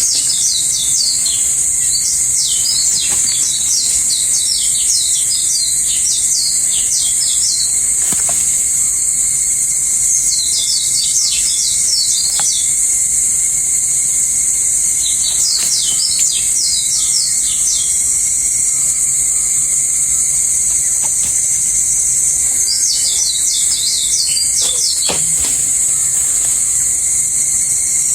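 Forest ambience: a steady high-pitched insect drone throughout, with birds chirping in rapid runs in four spells of a few seconds each, at the start, around ten seconds in, around fifteen seconds in, and near twenty-three seconds in.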